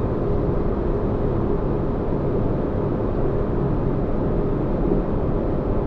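Synthetic spaceship-interior ambience: a steady deep bass rumble with a faint constant hum, like an engine drone heard from inside a ship.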